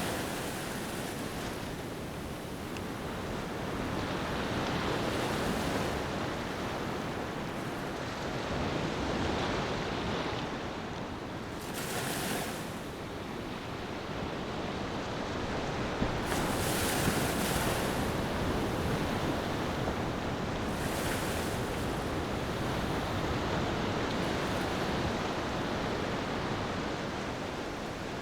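Ocean waves washing onto a beach in slow swells. A few of the swells break with a louder hiss of surf.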